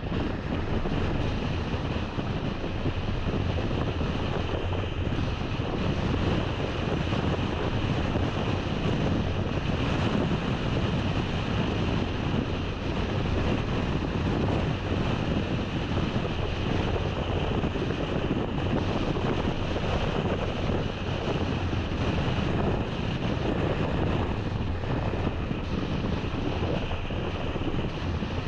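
Steady wind and road noise of a moving car: a continuous rushing noise with a strong low rumble, unchanging throughout.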